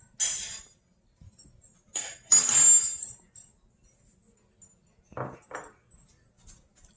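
Salt and pepper being shaken into a bowl of flour: a short burst of shaking, then a longer, louder one about two seconds later, followed by two light knocks near the end.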